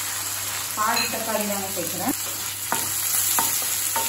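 Onions, curry leaves and freshly added chopped tomato sizzling in hot oil in a kadai. In the second half a wooden spatula stirs them, with a few knocks against the pan.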